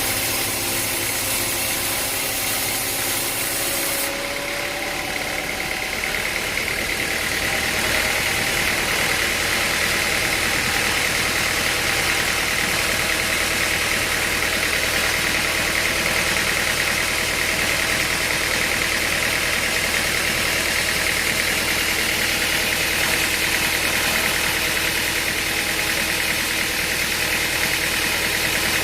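Sawmill machinery running steadily, a constant motor drone with a higher whine that comes in about six seconds in and holds.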